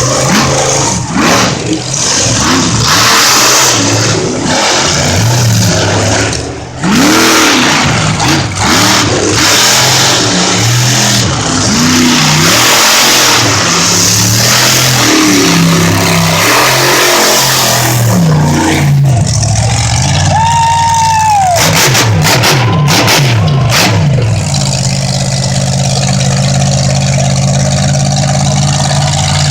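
Monster truck engine revving hard, its pitch climbing and falling again and again under a loud rush of noise. Over the last few seconds it settles into a steadier, even drone.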